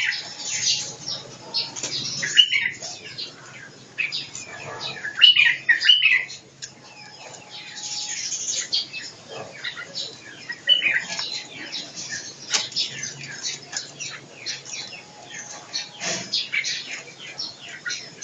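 Several caged songbirds chirping and calling in quick, overlapping short notes, with a few louder calls among them.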